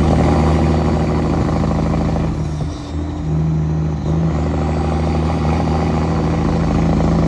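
Freightliner semi truck's diesel engine running at a steady speed, holding one even pitch throughout.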